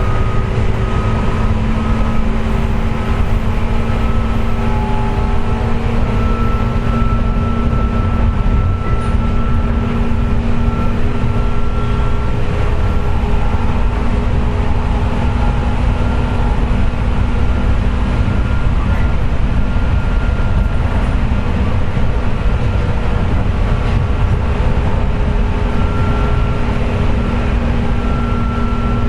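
JR West 201 series electric train running at a steady speed, heard from inside motor car MoHa 201-280: loud, constant rolling rumble with steady whining tones over it. This is the car's "jet sound", caused by electrical pitting (electrolytic corrosion) of its bearings.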